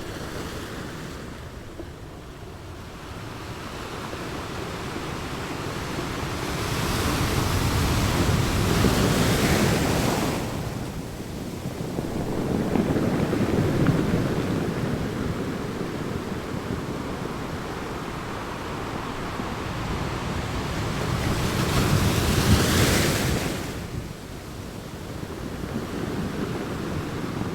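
Sea waves breaking on a shore: a rushing noise that swells and falls, with two big surges, about a third of the way in and again near the end.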